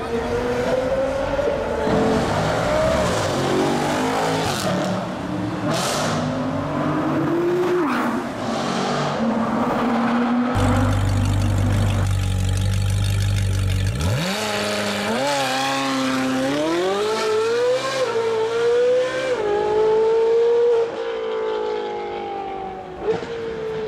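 Supercar engines revving and accelerating, the engine pitch climbing and falling again and again. A heavy low rumble runs from about halfway through, then one engine's pitch climbs quickly as it accelerates away.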